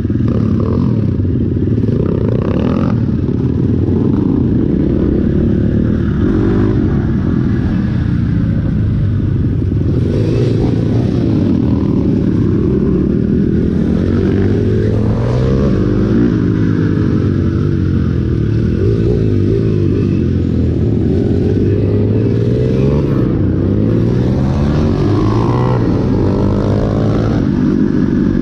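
Dirt bike engine running hard as the bike is ridden, its note repeatedly climbing as it revs up through the gears and dropping at each shift.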